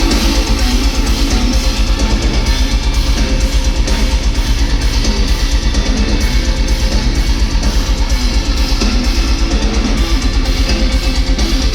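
Metal band playing live: distorted electric guitars and a drum kit driving a rapid, steady beat.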